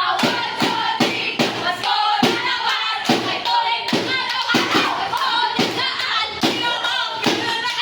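Singing over a steady, quick beat of thumps or claps, about two to three strokes a second.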